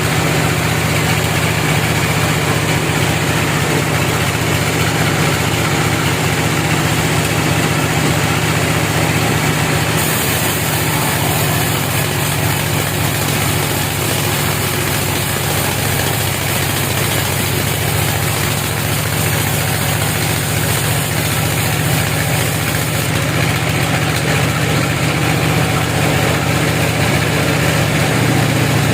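Sawmill machinery with an engine running steadily, giving a deep, constant hum under a broad hiss. The hiss brightens from about ten seconds in until a little past twenty seconds.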